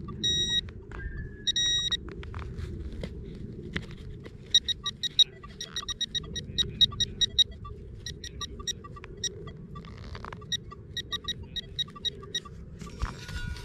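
Metal detector beeping: a few longer tones at first, then many short, irregular beeps as it is swept over a target in the dig hole, with a steady low rumble of handling underneath.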